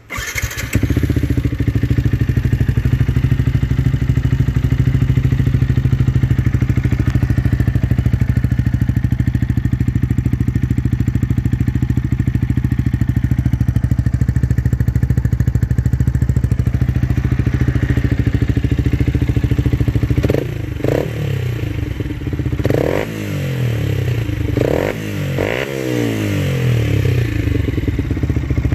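Yamaha MT-125's single-cylinder four-stroke engine, breathing through a Black Widow Oval 300mm aftermarket exhaust with the baffle fitted, starts up and idles steadily. In the last third it is revved several times in short blips, each rising and falling back to idle.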